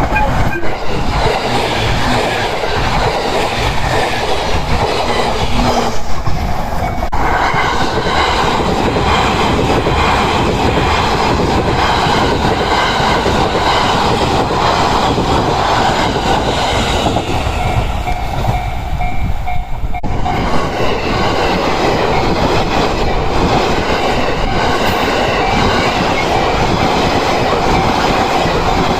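Train running on the rails, a continuous loud rumble and rattle. The sound changes abruptly twice, about a quarter and two-thirds of the way through.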